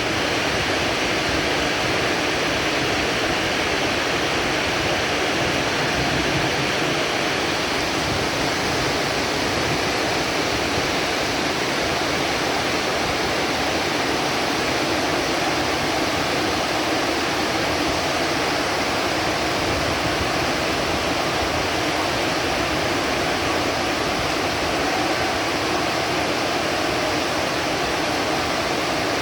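Heavy rain falling steadily as an even, unbroken hiss, with no thunder in this stretch.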